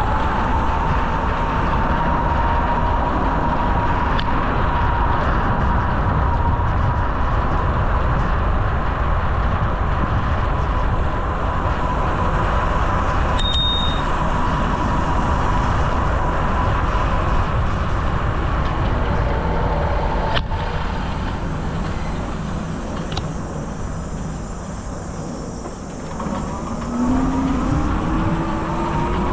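Rushing wind and road noise from riding a bicycle along a paved trail, with a steady whine throughout and a short high ping about halfway. The noise eases briefly, then picks up again near the end with a rising whine.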